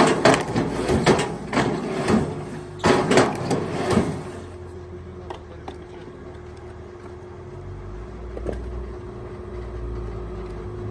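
Several knocks and clatters in the first few seconds, then a motor humming steadily with one constant tone, and a low rumble building under it.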